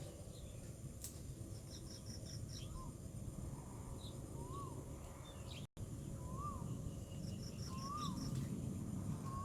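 A bird calling outdoors: a short whistled note that rises and falls, repeated about every one and a half to two seconds, with faint rapid high-pitched chirp series and a steady background hiss.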